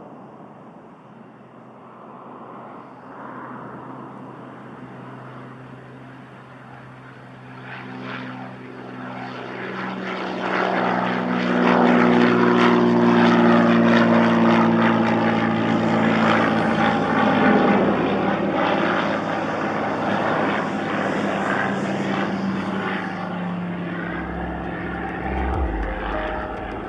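Propeller airplane passing: its engine drone builds to a loud peak about halfway through, then drops slightly in pitch and slowly fades as it moves away.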